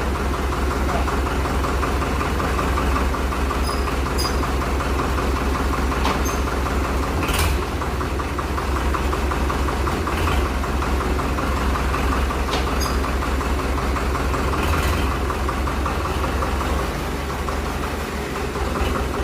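Powertrac tractor's diesel engine idling steadily with a fast, even pulse. A few brief sharp clacks sound over it.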